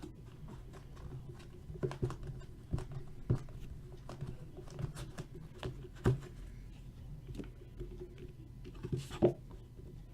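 Hockey trading card pack being opened and its cards handled: irregular clicks, taps and rustles of card and wrapper, with a sharper tap about nine seconds in.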